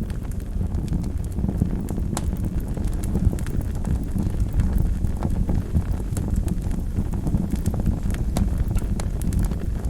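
Wood fire burning in a fireplace: a steady low roar of the flames with irregular sharp crackles and pops scattered throughout.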